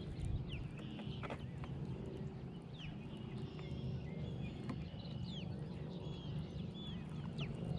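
Several birds calling: many short chirps, down-slurred whistles and brief held notes, over a steady low rumble.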